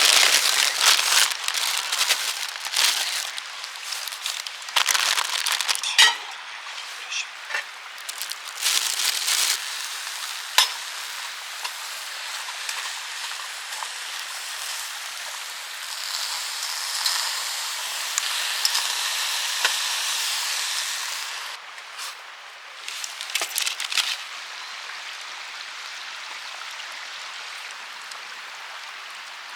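Campfire crackling and popping, with a dense run of sharp snaps and rustles in the first third. It then settles into a steady hiss with only occasional pops.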